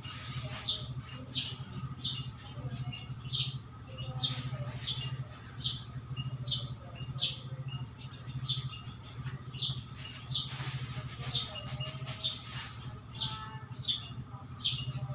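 A small bird calling over and over with short, sharp chirps that sweep downward, about one a second, over a steady low hum.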